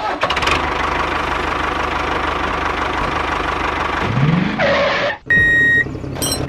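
An engine running steadily, with a short rising whine about four seconds in. Just past five seconds it cuts off and a high steady beep sounds for about half a second.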